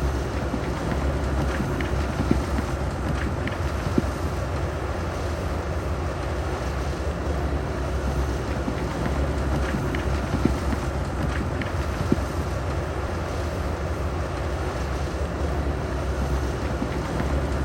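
Heavy diesel earth-moving equipment running steadily with a deep rumble, with a few short knocks from time to time.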